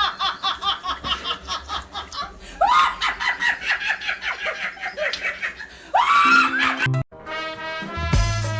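A person laughing hard in quick repeated bursts of 'ha', breaking into a loud rising shriek about six seconds in. Then an abrupt cut, and music with a steady beat starts about seven seconds in.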